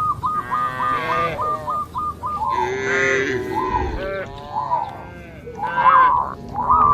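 Cattle mooing: a fast run of short, identical high calls, about four a second, for the first couple of seconds, then longer calls, several overlapping, loudest near the end.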